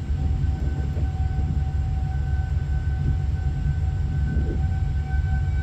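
Heavy wind rumbling and buffeting the microphone in a tornado, with a steady warning-siren tone sounding over it that grows stronger near the end.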